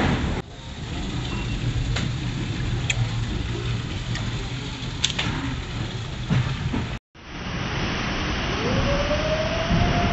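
Passenger train running, a steady rumble with a few sharp clicks. The sound cuts out for a moment about seven seconds in, and after that a single long tone rises and holds near the end.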